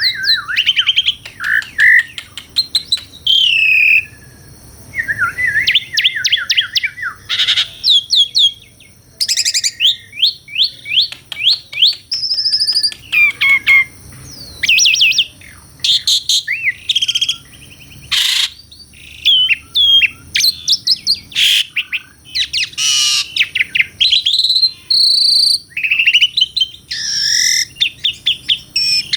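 Asian pied starling (jalak suren) singing a long, varied song of fast trills, rising and falling whistles and sharp clicking notes, in quick phrases with short pauses between them.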